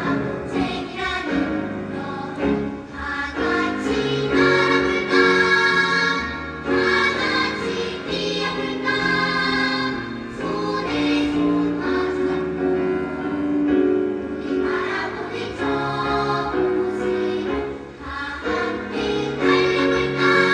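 Children's choir singing in phrases of held notes, with musical accompaniment.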